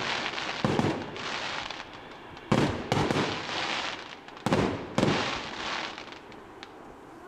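Fireworks display: aerial shells bursting in about five sharp bangs, two pairs in quick succession, with crackling and hiss between them, dying down near the end.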